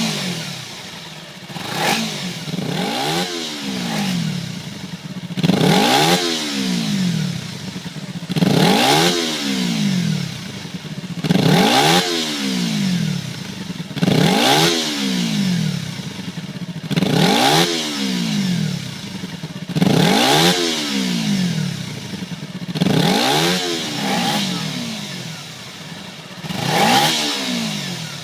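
Kawasaki Ninja 250's parallel-twin engine revved again and again through an OVER Racing TT-Formula titanium slip-on muffler, each rev climbing in pitch and falling back, about every three seconds.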